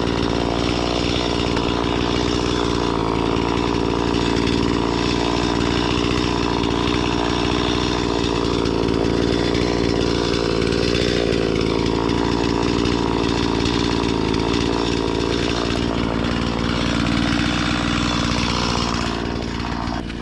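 Stihl chainsaw running steadily at working speed while cutting up willow wood. Near the end its pitch drops as the saw slows.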